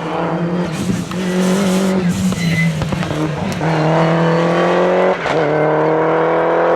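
Group F2000 rally car's naturally aspirated engine pulling hard at high revs, its pitch climbing steadily, with a quick gear change about five seconds in before it climbs again.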